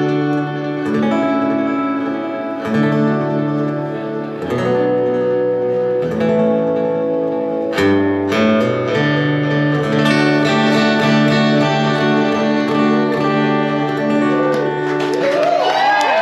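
Acoustic guitar playing the closing instrumental bars of a song, with sustained chords ringing. Near the end the audience starts to cheer.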